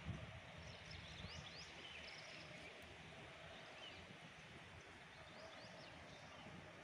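Faint outdoor ambience: a few short, high bird chirps scattered over a low, steady background rumble.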